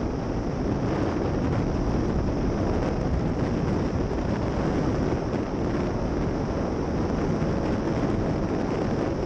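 Honda motorcycle engine running steadily while riding, with heavy wind buffeting the microphone.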